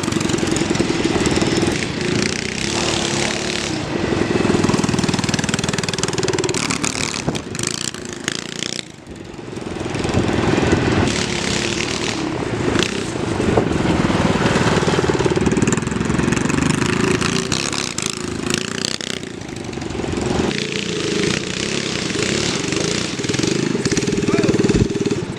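Go-kart's 212cc Predator single-cylinder four-stroke engine running under way, revving up and dropping back repeatedly, with a brief drop in power about nine seconds in.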